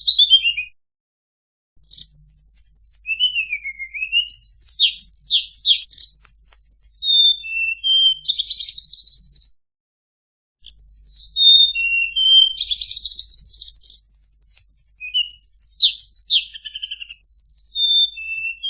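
Tledekan bird song from a masteran, a tutor recording for training caged songbirds: rapid, varied high chirps, quick falling slurs and buzzy trills, in phrases broken by two short silences, one about a second in and one about halfway through.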